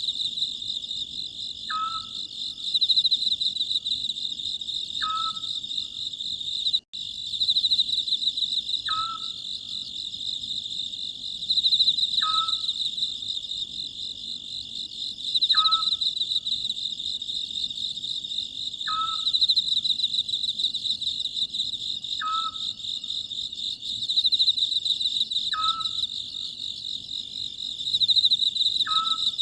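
An Oriental scops owl calls a short hoot about every three seconds, over a steady pulsing trill of night insects such as crickets.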